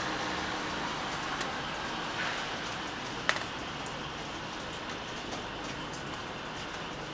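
Steady rain falling, with scattered drops ticking on a surface and one sharper tap about three seconds in.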